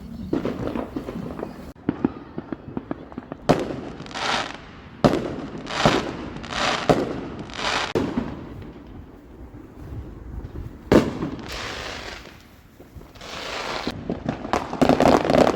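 Fireworks going off: about six sharp bangs spread over several seconds, several of them followed by a short crackling hiss, then a burst of rapid crackling near the end.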